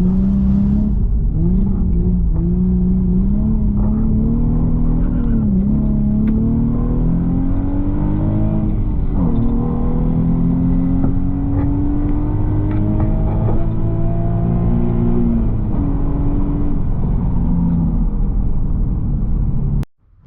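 Nissan 350Z HR's V6 engine running on the road, revs dipping and rising a few times, then climbing steadily under acceleration for several seconds before easing off. The sound cuts off suddenly near the end.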